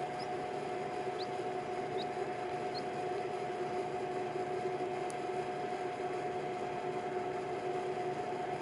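Steady electrical hum with a faint hiss, and three faint, short, rising high peeps in the first three seconds from newly hatched baby birds.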